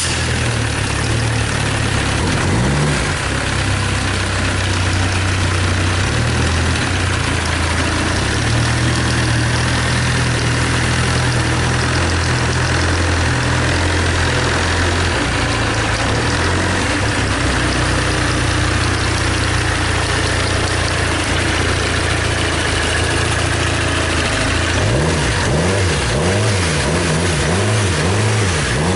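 SsangYong D20DTF 2.0-litre four-cylinder diesel engine running out of the car on a test run for an oil pressure check, idling steadily just after start-up. Near the end its speed rises and falls several times in quick revs.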